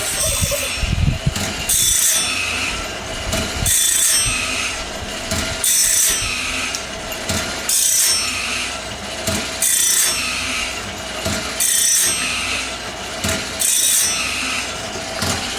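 Automatic sawmill band blade sharpener running, grinding one tooth after another: a short rasping grind about every two seconds over the steady hum of its motor as the blade is stepped along tooth by tooth.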